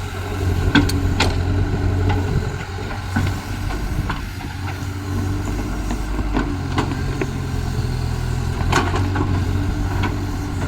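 Caterpillar excavator's diesel engine running steadily, with a few sharp knocks from the machine at work, two close together about a second in and more later.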